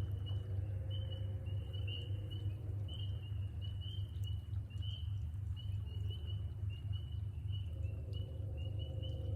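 A chorus of spring peepers: many short, high peeps overlapping, several a second, over a steady low hum.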